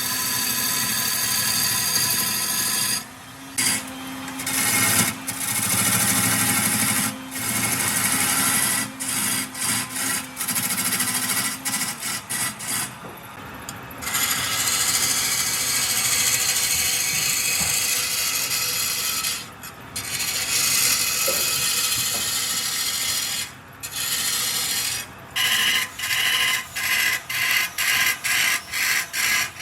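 Wood lathe spinning a workpiece while a hand tool rubs and scrapes against the turning wood. The noise breaks off abruptly many times, and near the end it comes in short bursts about two a second.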